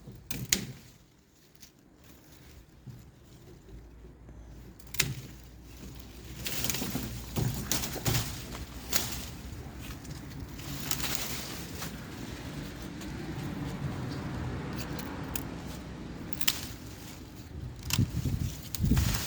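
Pruning shears snipping grapevine canes: sharp clicks now and then, a few close together near the end, over a rustling noise that swells through the middle.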